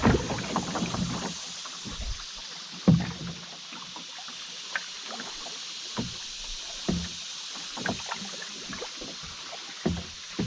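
Paddling a canoe: a low rumble in the first second or so, then separate paddle strokes and knocks against the canoe every one to three seconds, over a steady hiss of moving water.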